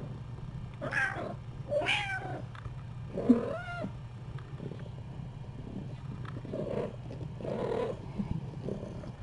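A cat meowing: three clear meows in quick succession in the first four seconds, each rising and falling in pitch, then a few softer calls later on.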